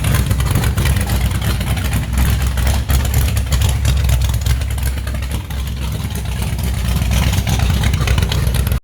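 A truck's V8 running loudly through a Cherry Bomb glass-pack exhaust, a deep, heavy exhaust note that holds fairly steady with small swells.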